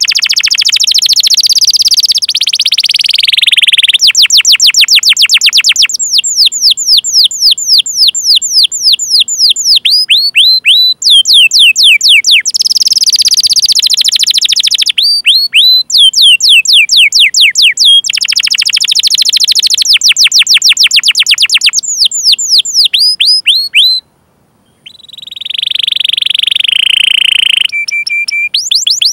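Domestic canary singing loudly without pause: runs of rapid 'cuit cuit' chirps, several a second, each falling in pitch, alternating with fast rolled trills. The song breaks off briefly about 24 seconds in.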